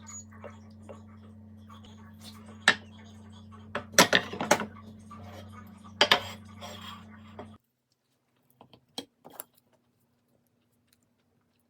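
Kitchen utensils and dishes clinking and knocking over a steady low hum, with a dense clatter about four seconds in and another sharp clink about two seconds later. The sound cuts off abruptly partway through, leaving a few faint clicks.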